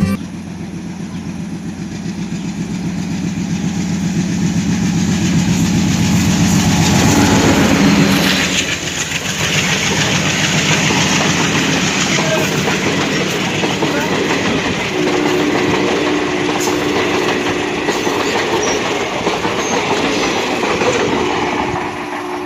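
MEMU electric passenger train running on the rails with wheel clatter, growing louder over the first several seconds, then easing and continuing steadily.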